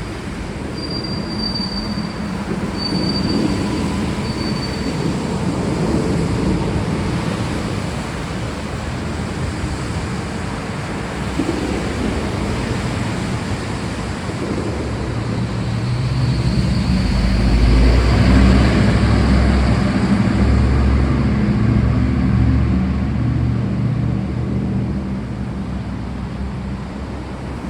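Steady rain with a long, low roll of thunder that builds and is loudest about two-thirds of the way through. A few short, high squeaks come in the first few seconds.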